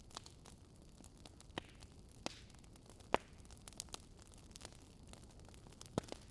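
Wood fire crackling: scattered sharp pops and snaps over a low hiss, the loudest snap about three seconds in and another near the end.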